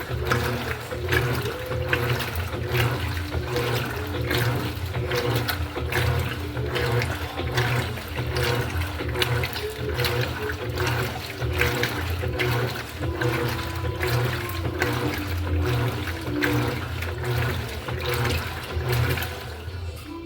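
Electrolux LED14 washing machine churning water in its tub, a continuous rough sloshing, with music playing underneath.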